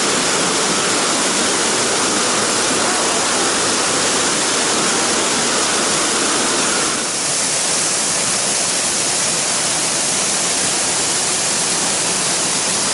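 Loud, steady rush of fast-flowing water, like a waterfall or rapids; its tone shifts slightly about seven seconds in.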